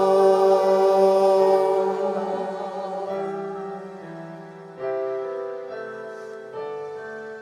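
Church choir holding the final sung chord of a song, fading out over about three seconds, then a piano playing slow, separate chords.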